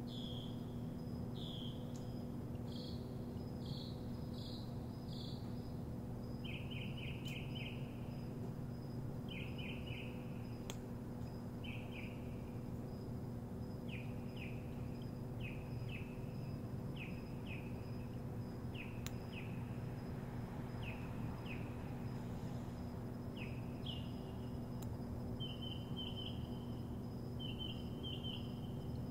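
A songbird singing: short down-slurred chirps repeated in phrases of two to five notes every second or two, some phrases quick and stuttered. A steady low hum and a thin steady high tone run underneath.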